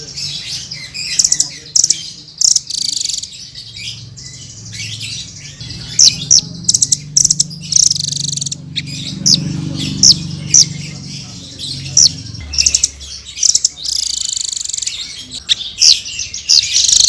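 Blue-crowned hanging parrot (srindit) singing: bursts of rapid, sharp, high chirps and trills, over a faint low background hum.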